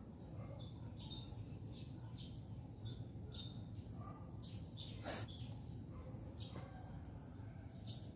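Small birds chirping: short, high, falling chirps repeated every half second or so, over a steady low background rumble. A brief rustle or scrape stands out about five seconds in.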